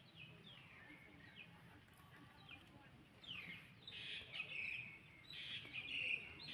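High, short downward-sweeping chirps from a small animal, a few spaced calls at first, then a louder, denser run of calls from about halfway.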